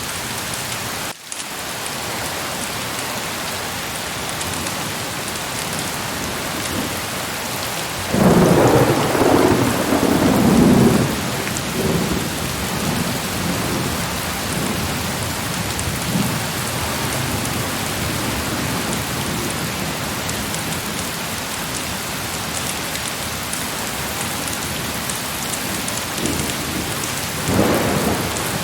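Heavy rain falling steadily. The sound cuts out for an instant about a second in. A roll of thunder comes about eight seconds in and lasts a few seconds, and a shorter rumble of thunder comes near the end.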